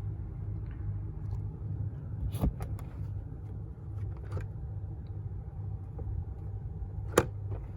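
2016 Toyota Tundra's 5.7 L V8 idling, heard from inside the cab as a steady low hum. A few sharp clicks come over it, one about two and a half seconds in and another near the end.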